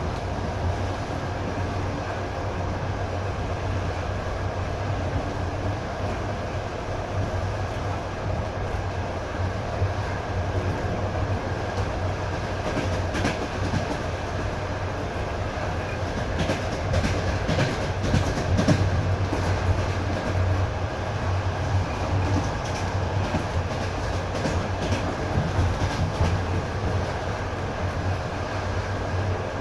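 Passenger train running along the track, heard from inside the carriage: a steady rumble with the wheels clicking over the rails, the clicks sharper and busier through the middle.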